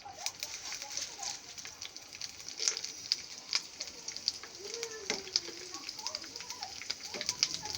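Raw papad frying in hot ghee in a pan: a steady sizzle with dense, fine crackling pops.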